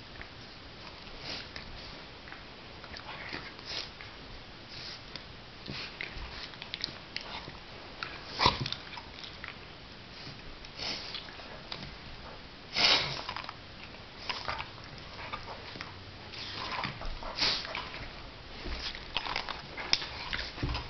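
A Jack Russell terrier and a pit bull mix play-fighting: a string of short scuffling and mouthing noises at irregular intervals, with two sharper, louder ones about eight and thirteen seconds in.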